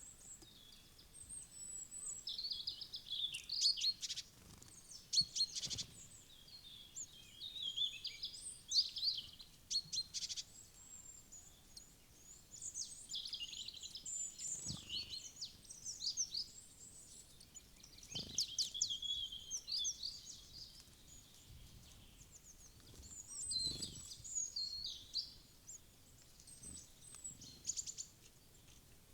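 Small songbirds at a forest feeder chirping and twittering in repeated bursts of short, high calls, with brief lulls between.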